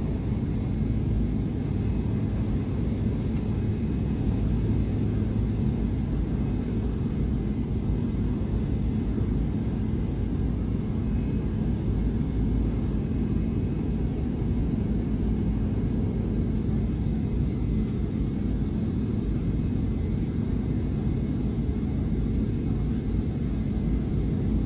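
Steady low drone of a light aircraft's engine, heard from on board in flight.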